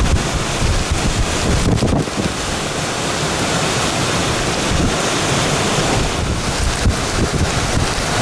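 Near-hurricane-force tropical storm winds gusting, buffeting the microphone with a loud, steady rush of noise.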